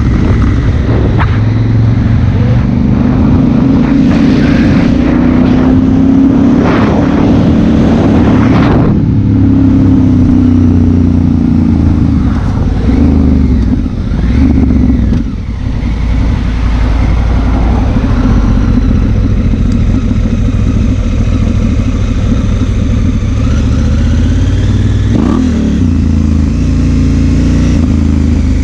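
Honda Africa Twin CRF1000L's 998 cc parallel-twin engine running under way, its pitch rising and falling with the throttle, with a brief dip in level about halfway through.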